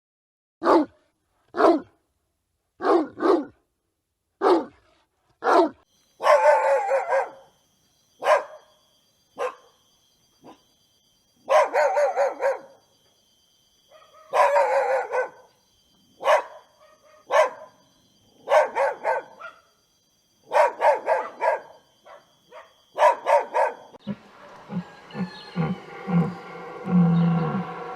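A dog barking repeatedly: single sharp barks about a second apart at first, then longer drawn-out barks and yelps in clusters. Near the end the barking gives way to a steady background noise with a few low pulses.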